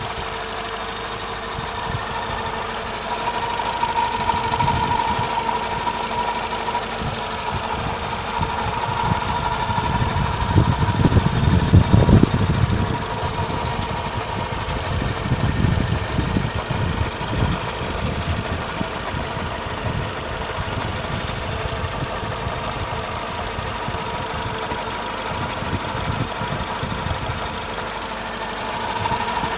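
Mercedes-Benz E230 W210's four-cylinder petrol engine running with a strange grinding noise: steady whining tones over an uneven low rumble that swells loudest about ten to thirteen seconds in, then eases.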